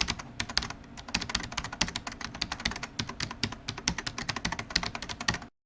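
Rapid typing on a keyboard: a fast, irregular run of sharp clicks that stops abruptly about five and a half seconds in.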